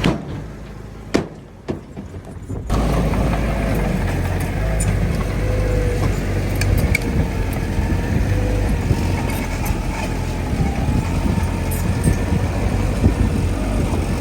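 Heavy diesel earthmoving machinery running steadily, with a faint wavering whine over the engine. It comes in suddenly a little under three seconds in, after a quieter stretch with a few sharp knocks.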